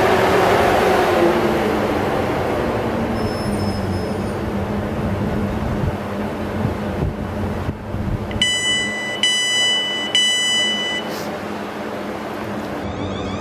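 South West Trains electric multiple unit slowing to a stop at the platform, its running noise fading over the first couple of seconds into a low steady hum. About eight seconds in, three long electronic beeps sound back to back: the door warning as the doors are released.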